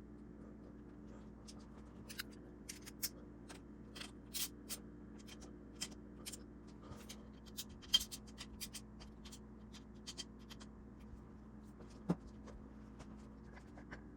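Irregular light clicks and taps, with the sharpest click about eight seconds in, over a steady low hum.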